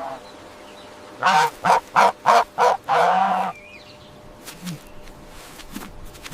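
Farm poultry calling: a quick run of about six short calls starting about a second in, the last one drawn out longer.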